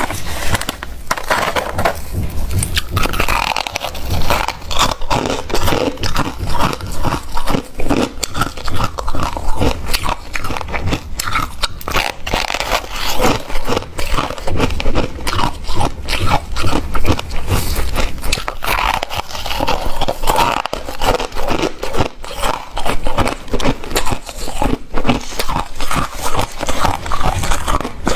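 Close-miked biting and chewing of ice: a dense run of rapid crunching and crackling with no break.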